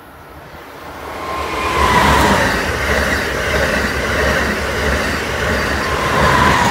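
Amtrak Acela Express electric high-speed trainset passing close at speed: a rushing rumble of wheels and cars builds over the first two seconds and holds loud, with a thin whine as the front goes by and again as the rear power car passes, then cuts off suddenly.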